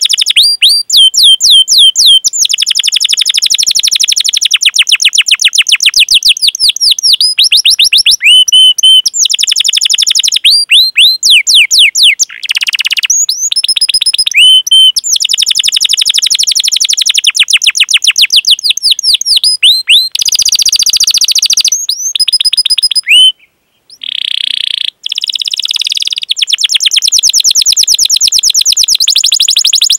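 Domestic canary singing a long rolling song: fast runs of repeated high chirps, each run lasting a few seconds, broken by short pauses.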